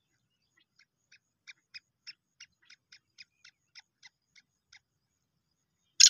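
A bird giving a faint run of about a dozen short, evenly spaced notes, roughly three a second, starting about a second in and fading out a second before the end.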